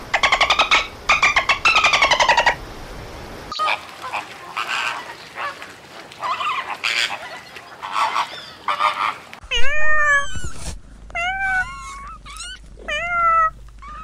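A string of animal calls: buzzy, pulsed dolphin squawks for the first few seconds, then scattered Canada goose honks, then a cat meowing about six times, each meow rising and falling, over a low hum in the last few seconds.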